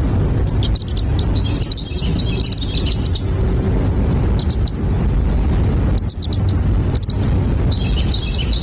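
Small birds chirping in quick high clusters, about a second and a half in and again near the end, over a steady low rumble.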